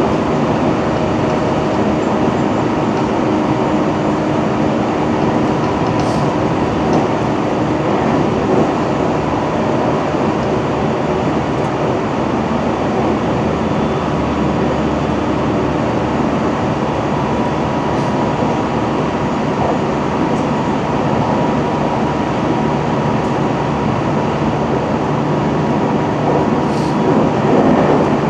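Running noise inside the lead motor car of a JR Central 313 series electric train: a steady rumble of wheels on rail with the traction motors' hum, its tones changing a few times, and a few faint clicks.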